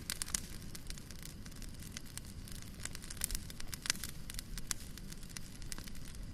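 Fire crackling in a fireplace: irregular sharp pops and snaps, a few a second, over a steady low rumble of the flames.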